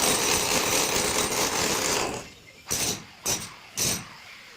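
Handheld power tool running for about two seconds, then switched on in three short bursts.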